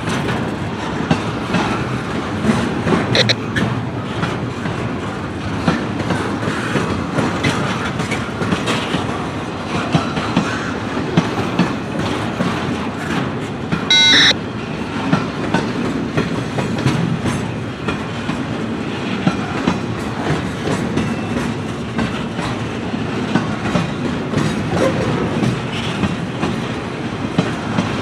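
Freight train cars rolling past, wheels clicking steadily over rail joints above a continuous rumble. A short high-pitched tone sounds about halfway through.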